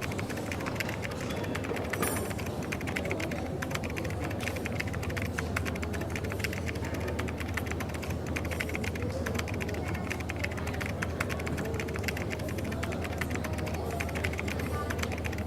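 Coffee shop ambience: a steady low hum under a continuous run of quick, light clicks and clatter.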